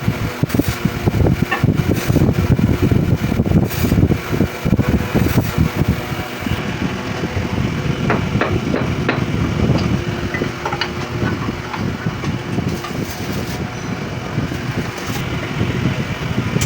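Auto repair workshop noise: a steady low machine hum with scattered knocks and clicks of metal parts and tools, busiest in the first few seconds.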